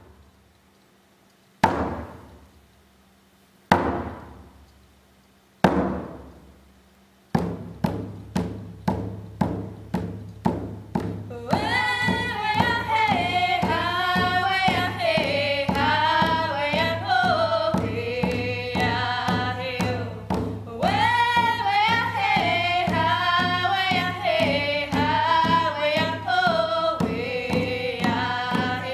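Hand-held frame drums struck with beaters: four single, slow strikes about two seconds apart, each ringing out, then a steady quicker beat of about two strikes a second from about seven seconds in. From about twelve seconds, two women's voices sing a drum song over the beat.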